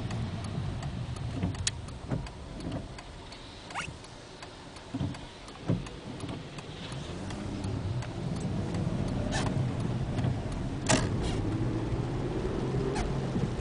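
Cabin noise of a 2003 VW Jetta 24v VR6 with an 02M six-speed manual on the move: a steady low drivetrain and road rumble with scattered clicks and rattles. In the second half it grows louder with a faint whine, the noise the owner is trying to trace to the transmission or differential.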